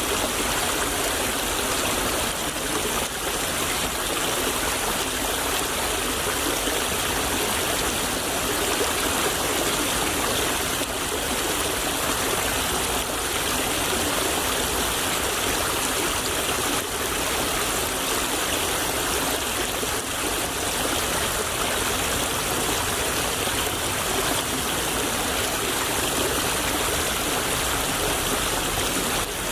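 A small stream babbling and trickling steadily over rocks.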